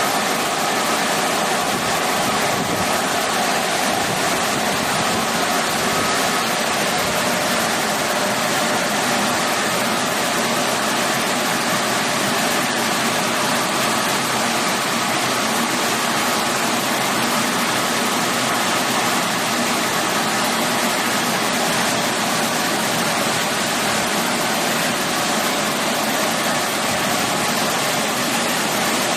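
Electric blower fan running on its strong setting, blowing air to dry: a steady rush of air with a faint whine.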